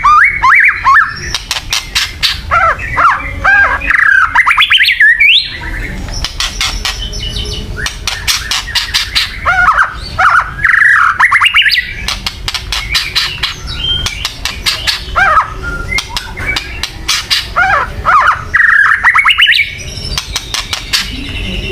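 White-rumped shama (murai batu) giving its agitated 'kretekan' calls: fast, harsh ticking rattles mixed with short whistled phrases, in three loud spells about eight seconds apart. A steady low rumble runs underneath.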